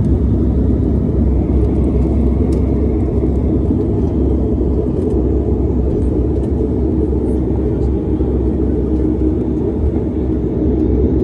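Cabin noise inside a Dash 8 turboprop airliner during landing: a steady, loud, low drone from the engines and propellers.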